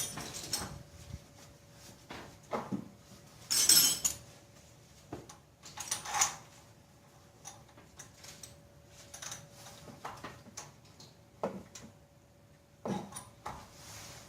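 Hand tools and metal engine parts clinking and clanking now and then, with a few louder knocks, as bolts and brackets are worked on in an engine bay. A faint steady hum runs underneath.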